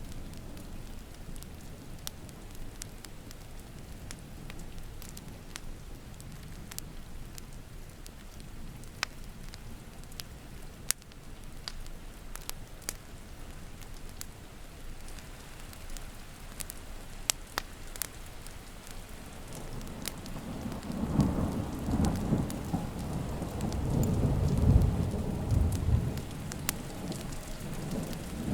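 Steady rain with a wood fire crackling in sharp, scattered pops. About two-thirds of the way in, a low roll of thunder builds, swells, and rumbles on toward the end.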